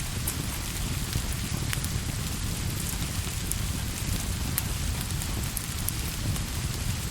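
Steady rain with a deep rumble underneath, mixed with the scattered sharp crackles of a wood fire in a fireplace.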